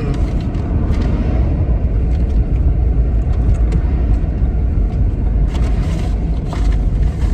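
Car cabin noise while driving: a steady low rumble of engine and road, with a few faint clicks.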